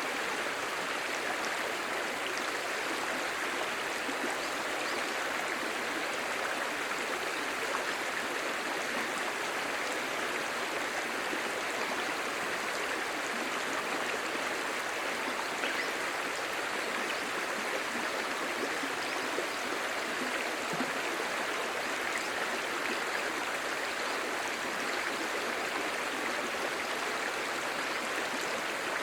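Clear shallow stream babbling and murmuring over stones, a steady rush of water that doesn't change.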